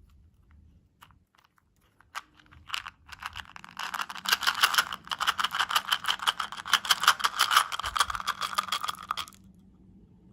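Close-miked crunching of crunchy candy or dessert: a few scattered crackles, then from about three seconds in a dense, crisp crackling run for about six seconds that stops suddenly.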